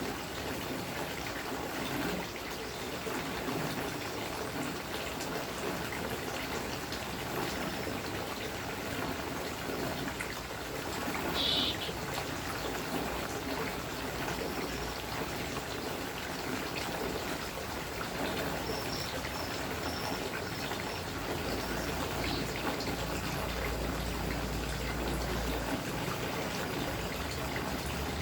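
Water trickling steadily as a prenjak (prinia) bird bathes, with one brief high chirp about midway and a few short high peeps a little later.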